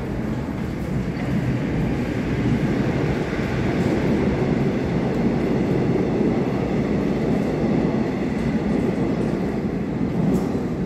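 Train running on the rails: a steady rumble of wheels and running gear that grows louder over the first few seconds and then holds.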